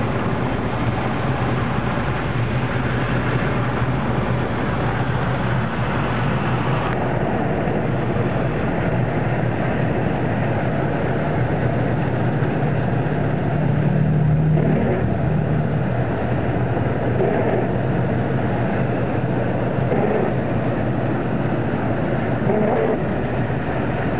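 A motor vehicle's engine running steadily under a continuous wash of noise. The upper part of the noise drops away suddenly about seven seconds in, and the engine tone swells briefly around fourteen seconds.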